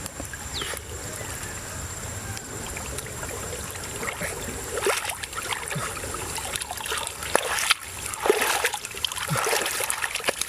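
Irregular splashing and sloshing of shallow river water as hands dig through the muddy riverbed for freshwater mussels, getting busier and louder from about halfway.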